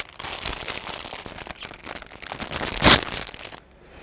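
Plastic instant-ramen packet crinkling as it is handled and torn open, with a sharp, loud burst about three seconds in.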